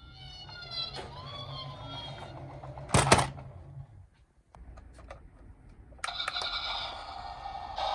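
Electronic toy-vehicle siren tones that waver and fall in pitch, broken by one loud sharp plastic clack about three seconds in; a steadier electronic tone starts near the end.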